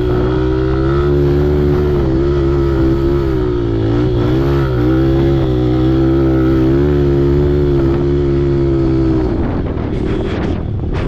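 Off-road vehicle's engine running at a fairly steady speed with small dips and rises in pitch; about nine seconds in the steady note breaks up into a rougher, uneven sound.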